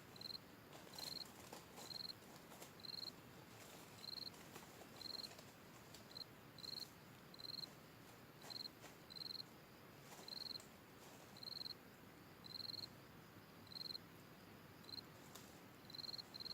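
Faint insect chirping, probably a cricket: a short, high chirp repeated about once or twice a second, with a short pause near the middle. A few faint clicks are heard over it.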